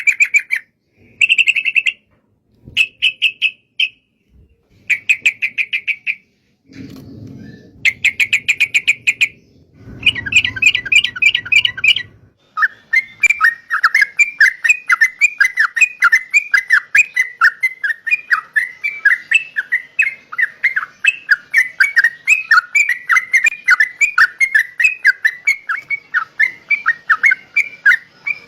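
Yellow-vented bulbul (trucukan) chirping in short bursts of rapid notes with pauses between them, then in an unbroken run of quick chirps, about five a second, from about twelve seconds in. A low rumble sounds under the chirps twice in the first half.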